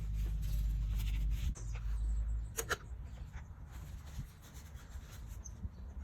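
Rubbing and scraping by hand, over a low hum that stops about two and a half seconds in, with one sharp click just after.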